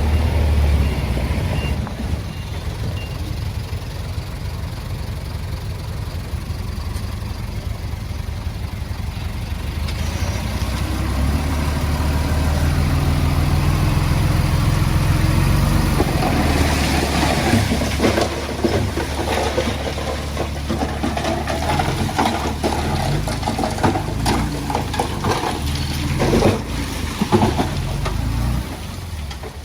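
Heavy diesel engine running steadily. From about halfway through, a busy clatter of knocks and rattles is added over it.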